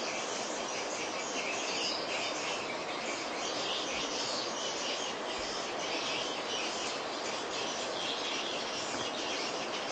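Dense, continuous twittering of many swiftlets, high chirps running together into a steady wash of sound.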